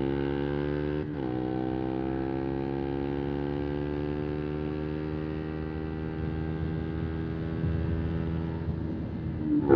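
A 125cc single-cylinder motorcycle engine pulling under way, its pitch climbing slowly as it accelerates. It shifts up about a second in, the pitch dropping and then climbing again. Near the end the revs dip and then rise sharply and louder.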